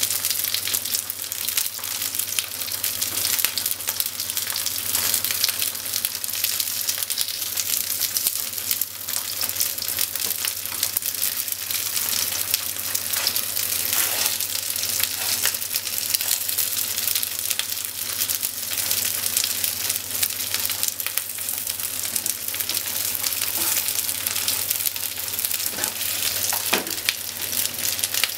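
Cubes of thick deep-fried tofu (atsuage) sizzling and crackling in hot oil in a non-stick frying pan, a steady sizzle dotted with small pops, as the pieces are turned with chopsticks.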